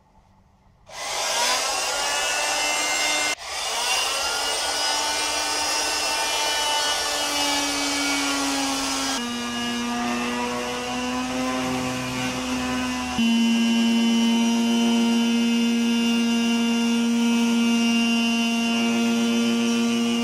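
Harbor Freight oscillating multi-tool sawing through a plexiglass sheet with a vibrating saw blade: a steady buzzing drone that starts about a second in, cuts out for an instant, then shifts in pitch and gets louder partway through as the blade works along the cut.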